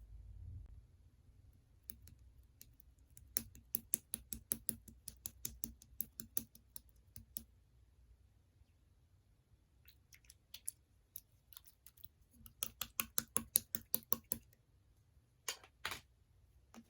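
Clear slime topped with jewel cross-stitch beads being pressed and poked by fingers: two runs of crisp clicking pops, about five a second. Near the end come two longer, louder squishes.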